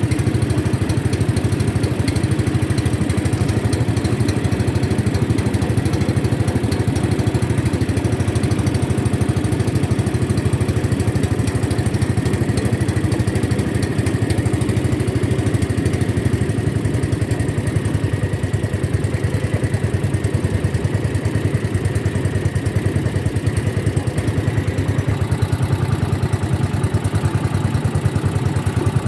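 A boat's engine running steadily at a constant speed, close by.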